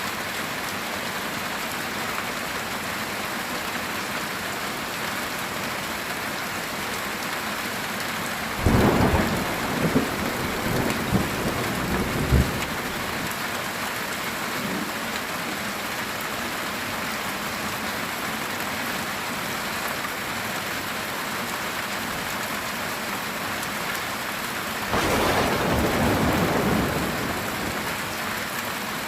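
Steady heavy rain on a metal tin roof, with two peals of thunder: a sudden crack about nine seconds in that crackles on for several seconds, and a second rumble about twenty-five seconds in that lasts about three seconds.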